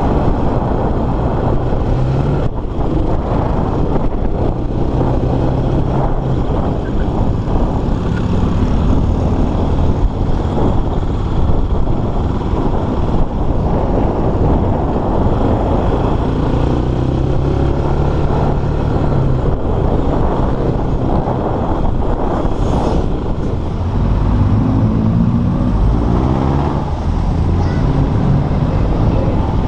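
Motorstar Cafe400 motorcycle's 400cc single-cylinder engine running as it is ridden, its pitch rising and falling several times as it revs and shifts gears, with road and wind noise.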